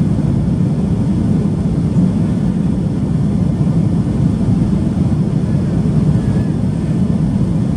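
Steady cabin roar of a Boeing 737-800 in flight, the CFM56-7B turbofans and airflow heard from inside the passenger cabin as an even, deep rushing noise.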